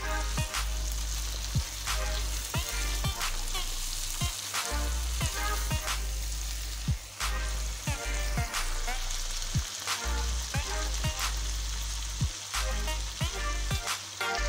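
Black-eyed beans in spice masala sizzling in oil in a nonstick frying pan as they are stirred with a silicone spatula, during the bhuna stage of frying. Background music with a steady beat plays throughout.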